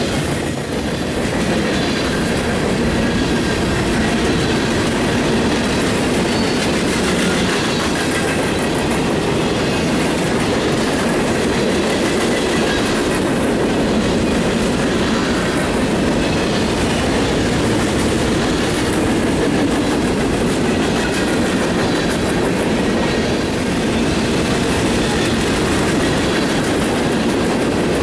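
Freight train cars rolling past: boxcars and covered hoppers, their steel wheels running on the rail in a steady, unbroken rumble.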